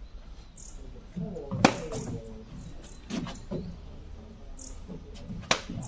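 Birds calling in forest, with two short, high, falling chirps. Several sharp knocks fall between them, the loudest about a second and a half in.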